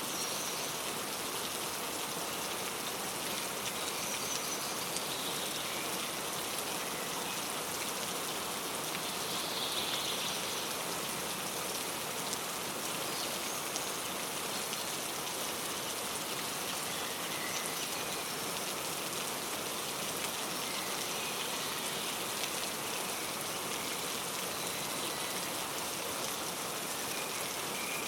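Steady rain falling and pattering on surfaces, with occasional faint, short bird chirps high above it.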